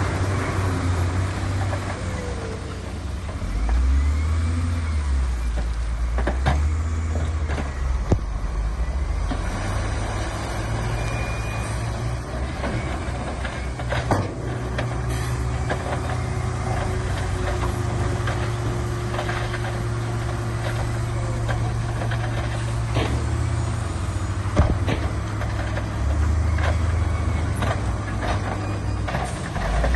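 Large diesel engines of earthmoving machines running, their drone rising and falling with load, with a few sharp knocks of stone or steel now and then.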